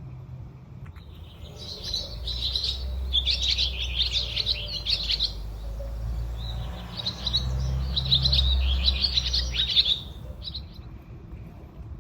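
A small bird chirping and twittering in two long, rapid bouts, with a pause between them, over a low rumble of wind on the microphone.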